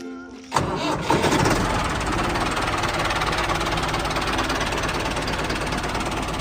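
A small engine starts about half a second in and runs steadily with a rough, knocking rattle.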